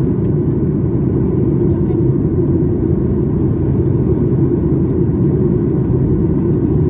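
Steady low rumble inside the cabin of a Boeing 737 MAX 8 airliner: engine and airflow noise, even and unchanging.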